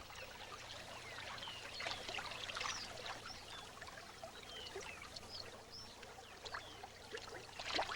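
Water trickling and splashing softly, with faint short chirps scattered through it.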